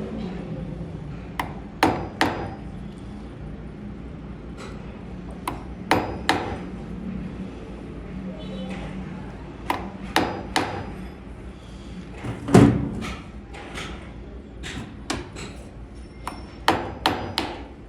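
Irregular sharp metal knocks and taps, singly or in quick pairs a second or more apart, the loudest about twelve and a half seconds in, with a faint steady hum beneath.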